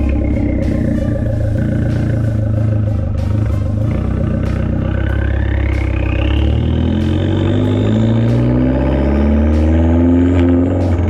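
Fiat 500 Abarth's turbocharged 1.4-litre four-cylinder running loud through a catless downpipe and catless cat-back exhaust. The revs sag over the first few seconds, then climb again as it accelerates, with a whine rising and falling along with them.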